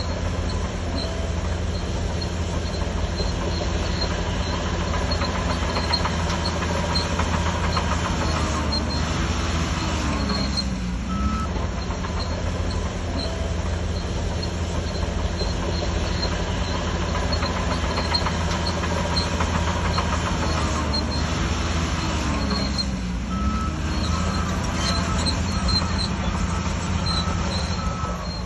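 Shantui DH17C3 bulldozer's diesel engine running steadily under load while pushing soil. Its engine pitch dips and comes back up twice, about twelve seconds apart.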